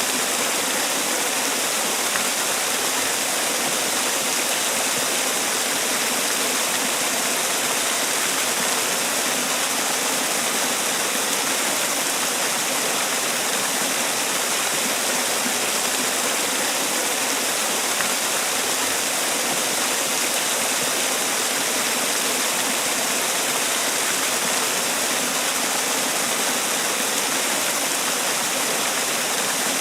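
Man-made waterfall: water falling and splashing in a steady, even rush, mostly high-pitched hiss with little low rumble.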